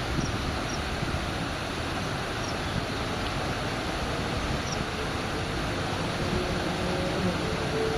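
Steady rumbling outdoor background noise, with a few faint, brief high chirps.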